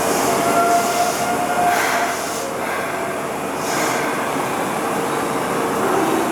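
Seibu Kokubunji Line commuter train running at the station platform, a steady rumble of wheels and motors. A faint steady squeal sounds in the first second or two, and two short hisses come about two and four seconds in.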